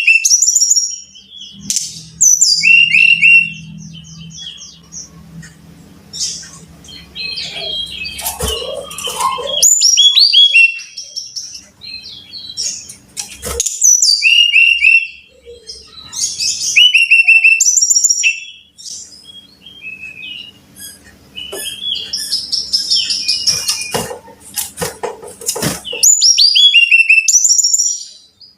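Brown-chested jungle flycatcher singing: loud phrases of quick, high, descending whistled notes, each run lasting a second or two with short gaps between. A low hum sits under parts of the song, and a few sharp thumps come through.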